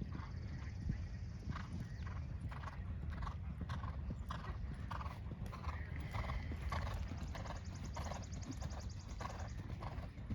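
A horse's hoofbeats in a steady rhythm, a few strides a second, over a steady low rumble.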